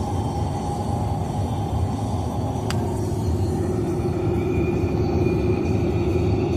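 Steady road and engine noise inside a moving car, with a single click about two and a half seconds in and a hum that grows a little louder in the second half.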